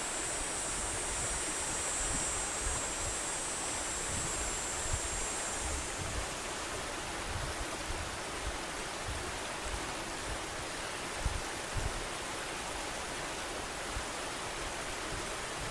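The Little Manistee River's current rushing steadily, with uneven low gusts of wind buffeting the microphone. A high, steady buzz sits over the water for the first six seconds or so, then stops.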